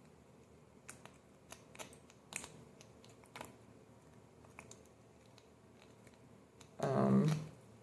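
Scattered small plastic clicks and taps, about a dozen over a few seconds, from a broken pump being worked out of a plastic hair-product bottle. A short burst of a woman's voice comes near the end.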